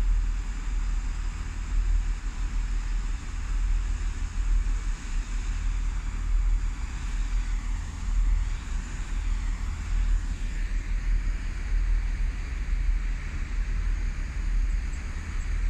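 Wind buffeting the microphone, a gusty low rumble over a steady background hiss.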